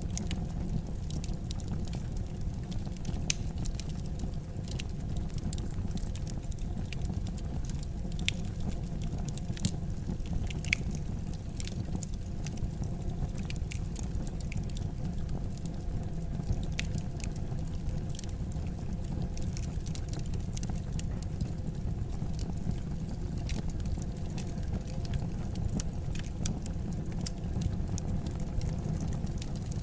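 Wood fire in a fireplace crackling, with irregular sharp pops and snaps over a steady low rumble of the flames; a few pops stand out louder, one about eleven seconds in.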